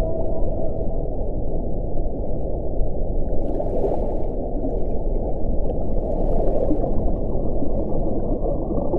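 Wind blowing steadily with a low rumble, swelling into two brief hissing gusts about four seconds in and again around six and a half seconds.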